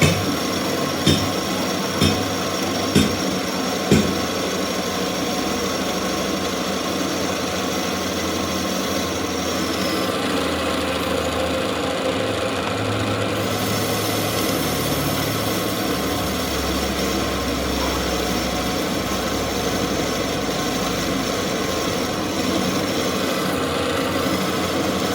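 Hammer blows, about one a second, five times in the first few seconds, over the steady running of workshop machinery that continues after the hammering stops.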